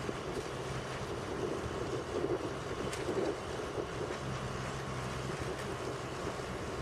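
A heavy engine running steadily under a wash of mechanical noise, with a few sharp clicks.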